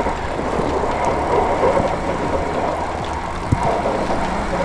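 Lectric XPeak e-bike coasting downhill through snow with the motor off and the brakes on: a steady rushing noise of tyres rolling and air moving past, with one small knock about three and a half seconds in.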